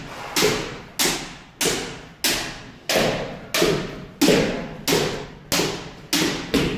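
Kendo practice impacts: a steady run of sharp strikes and stamps, about one and a half a second, each with a long fading echo.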